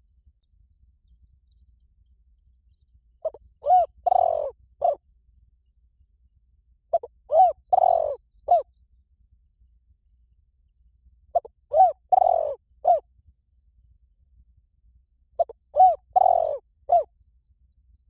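Spotted dove cooing: four calls about four seconds apart, each a quick run of short coos around one longer coo, ending with a short final note.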